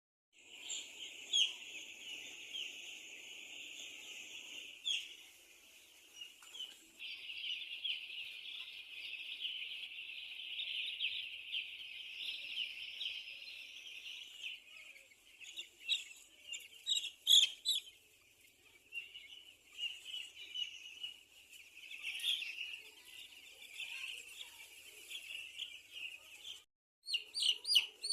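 A flock of chickens chirping: a dense, continuous chorus of high-pitched chirps, with a few louder calls standing out about halfway through.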